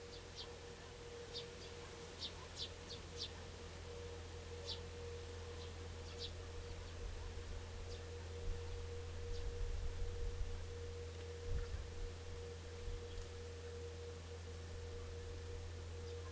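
Short, high bird chirps, a dozen or so in the first half and a few later, over a steady low hum and a constant faint tone. A few low thuds come in the middle and are the loudest sounds.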